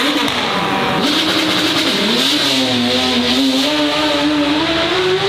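Racing car engine at full throttle. It dips in pitch twice near the start, then climbs steadily in pitch as the car accelerates.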